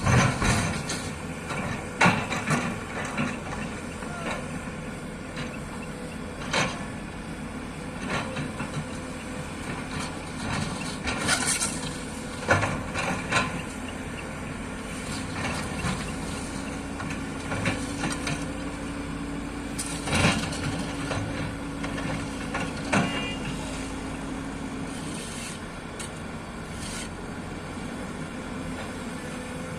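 Excavator's diesel engine running steadily while it works, with a steady tone held for several seconds in the middle and scattered knocks and clanks through it.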